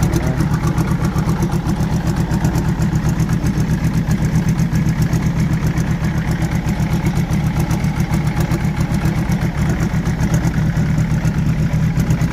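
BMW M57 straight-six turbo-diesel, swapped into an E36, idling steadily with an even, fast diesel pulse and no revving.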